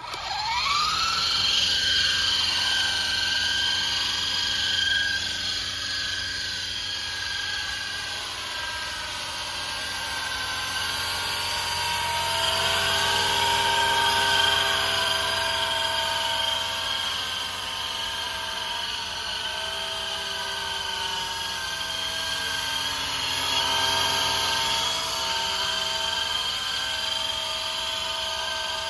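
Small battery-powered toy RC helicopter's electric rotor motors whining: they spin up at the start, then run with a steady high whine that drifts up and down in pitch as the throttle changes in flight.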